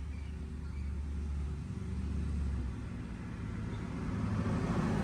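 Motor vehicle engine running steadily with a low rumble, growing a little louder toward the end.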